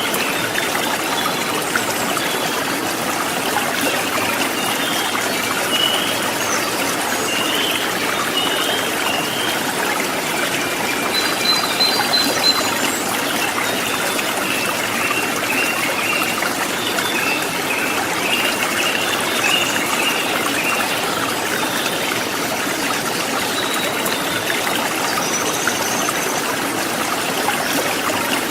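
Shallow river running steadily over rocks, with small birds chirping now and then above the water.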